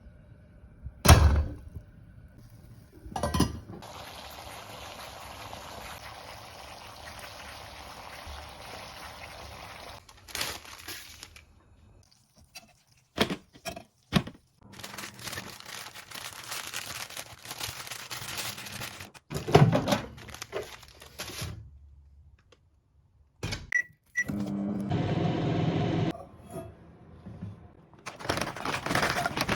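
Kitchen cooking sounds: cookware and utensils knocking, and long stretches of steady hiss like running or pouring water. Later there are two short high beeps, like an appliance.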